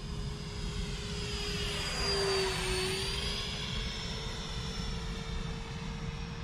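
70mm electric ducted fan of an RC foam jet whining in flight. It passes by about two to three seconds in, growing louder as its pitch dips slightly, then carries on steadily.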